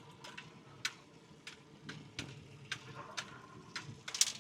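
A series of light, irregular clicks and taps from fishing gear being handled aboard a small boat, over a faint steady background.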